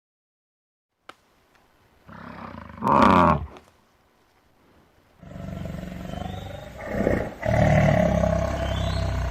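A large animal roaring in two calls: a short, falling call about three seconds in, then a longer, deep call from about five seconds on.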